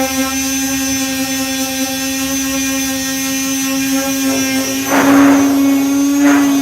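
Electric disc sander with a 240-grit disc running at steady speed on body filler, a steady motor hum. Louder bursts of sanding noise come about five seconds in and again near the end.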